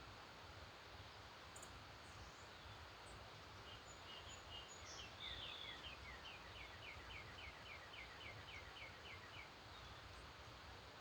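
A songbird singing faintly: a brief higher note, then a fast run of about fifteen short repeated notes at roughly four a second, lasting several seconds, over a steady faint outdoor hiss.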